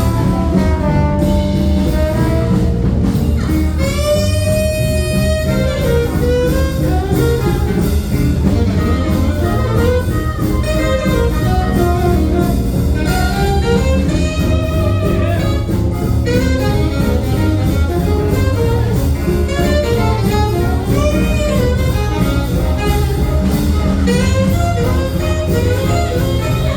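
Live jazz band playing a swing tune: melody lines over a steady bass.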